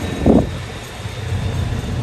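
SU42 diesel locomotive running with a steady low rumble, with one short, loud thump about a quarter of a second in.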